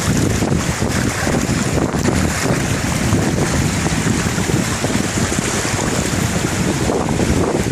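Wind buffeting the microphone: a steady, loud rumbling rush with uneven flutter and no distinct events.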